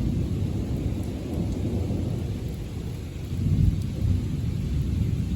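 Thunder rumbling low and continuous, swelling again about three and a half seconds in, over a steady patter of light rain.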